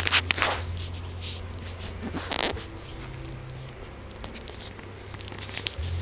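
Beehive being worked by hand: a scraping rustle at the start and another about two seconds in, with scattered light knocks and clicks, over a steady low hum of bees.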